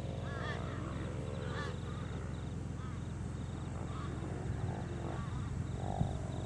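Birds calling in short, repeated arching calls, with a faint high trill, over a steady low drone.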